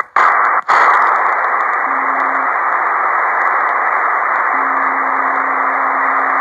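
Shortwave receiver on single sideband giving steady band-noise hiss between stations, cut out twice for an instant right at the start. A low steady carrier tone comes in briefly about two seconds in and again from about two-thirds of the way through.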